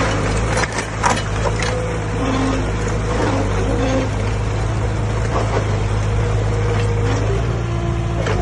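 Heavy diesel engine of earthmoving machinery running steadily, with scattered clanks and a sharp knock about a second in.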